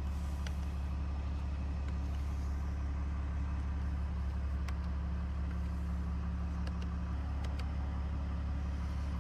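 RAM 3500's 6.7-litre Cummins inline-six turbo diesel idling with a steady low drone, with a few faint clicks.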